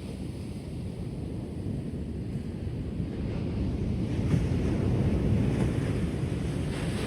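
Ocean surf washing onto a shore: a steady wash of wave noise that swells about halfway through as a wave breaks, then eases a little near the end.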